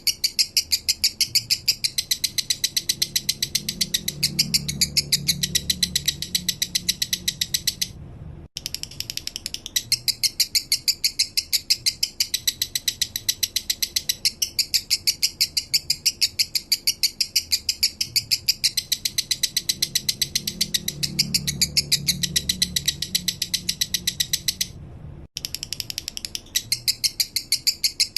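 Male lovebird singing its 'minor' song: a long, fast, even run of high chirps, broken by two short pauses.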